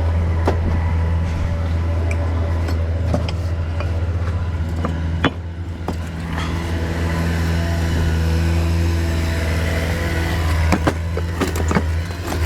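A motor running steadily with a low, even hum, with scattered clicks and knocks, several in a cluster near the end.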